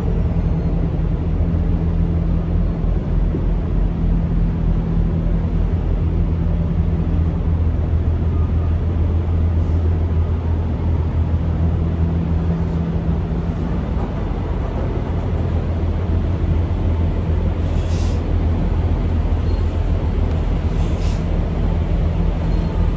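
Semi-truck diesel engine running with a steady low drone, with two brief hisses about two-thirds of the way through.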